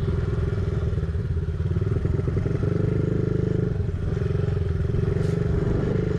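Honda CRF50 pit bike's small single-cylinder four-stroke engine running at a fairly steady pitch, with a couple of brief dips.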